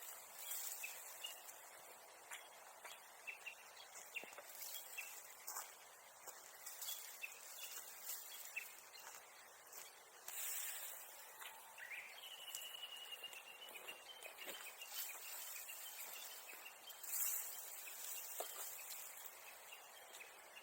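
Small birds calling in the open countryside: scattered short high chirps, and about twelve seconds in one longer call that rises and then holds a high note. A couple of brief rustles break in, the louder one near the end.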